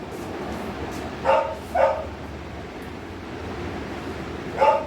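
Dog barking in short single barks: two close together about a second in, and one more near the end.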